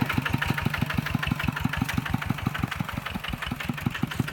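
Kubota tractor's diesel engine running steadily at low speed, an even beat of about eight pulses a second.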